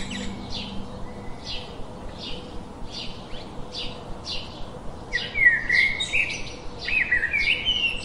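Birds chirping: a steady run of short high chirps, about two a second, with louder warbling phrases that rise in pitch about five and seven seconds in.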